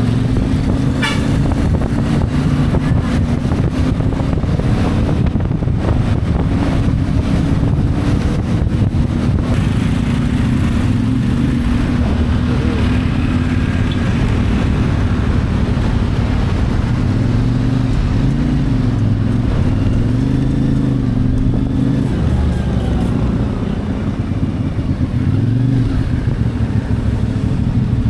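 CFMoto 450MT's parallel-twin engine running while riding, its pitch rising and falling as the throttle opens and closes and the gears change.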